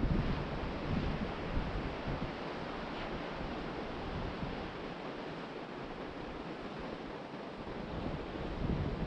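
Ocean surf washing steadily onto the beach, with wind rumbling on the microphone; the rumble is strongest in the first couple of seconds and again near the end.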